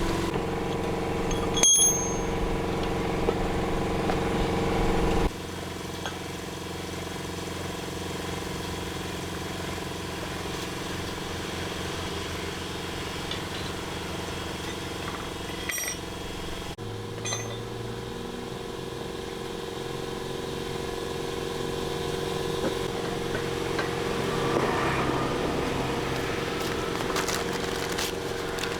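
A machine running steadily with a constant hum, changing abruptly twice where the footage is cut, with a few sharp clicks and a short rattling stretch near the end.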